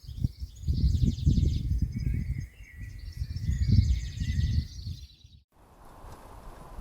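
Small garden birds calling in high, rapid trills at a woodland feeder, over loud, irregular low rumbling. The sound cuts off abruptly about five and a half seconds in, and a faint steady hiss follows.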